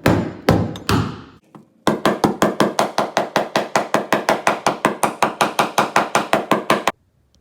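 Stiletto framing hammer striking the car's body metal: a few single heavy blows, then a fast, even run of about six blows a second for some five seconds that stops abruptly. The blows are denting the body in to give the exhaust downpipe clearance so it stops hitting and vibrating.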